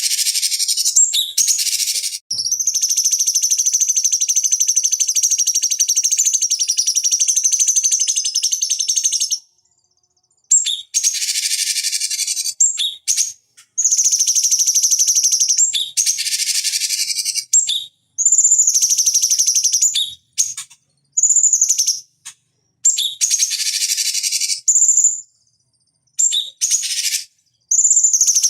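Cucak cungkok (a bulbul) singing: a long, rapid trill of about seven seconds, then a run of shorter high whistled phrases with brief pauses between them.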